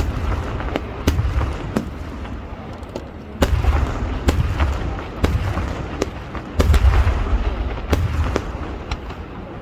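Festival fireworks going off in rapid succession: a constant crackle of sharp reports over deep, rumbling booms. The heaviest booms come in clusters about a second in, around three and a half to four and a half seconds in, and around seven to eight seconds in.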